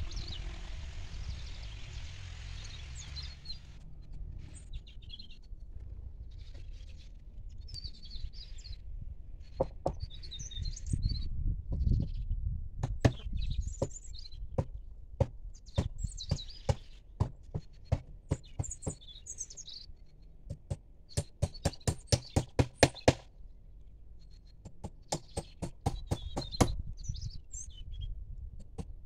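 Small birds chirping on and off, with sharp knocks of fence-repair work starting about a third of the way in, among them a quick run of about ten blows in two seconds.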